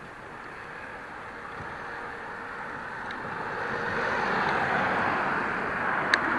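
Rushing noise of riding a bicycle, wind on the microphone with tyre noise, growing louder about halfway through as the ride picks up, with a single sharp click near the end.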